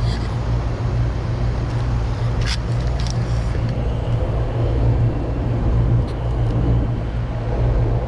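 Central air-conditioning system running with a steady low hum, blowing cold. A couple of light clicks come about two and a half and three seconds in.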